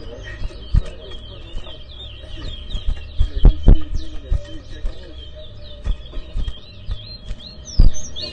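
Caged towa-towa (chestnut-bellied seed finch) singing a fast run of high, quick up-and-down whistled chirps without pause. A few dull thumps cut in, the loudest about three and a half seconds in and near the end.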